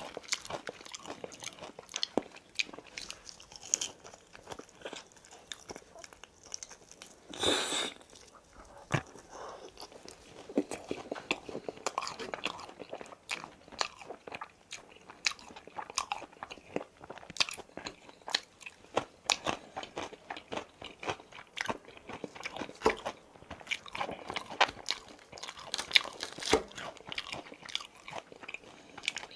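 Close-miked chewing and crunching of boneless fried chicken, with many small sharp crunches and clicks. A brief louder noise stands out about seven and a half seconds in.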